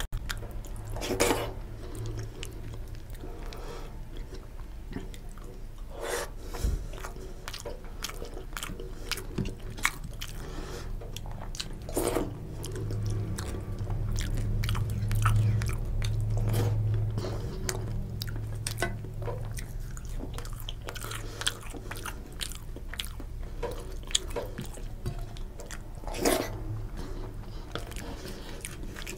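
Close-miked chewing and mouth sounds of a man eating khichuri by hand, with the wet sound of fingers mixing rice and lentils on the plate and many small clicks, a few of them louder. A low hum swells in the middle.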